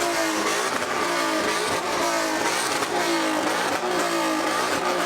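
Car engine revved over and over, the pitch jumping up and falling away again about three times every two seconds.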